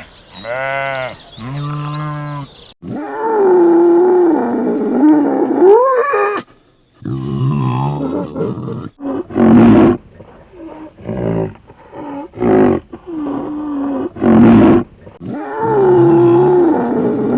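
Sheep bleating three times, then a large animal roaring. First come long roars with a wavering pitch that rises at the end, then a run of shorter, abrupt roars. The long roar starts again near the end.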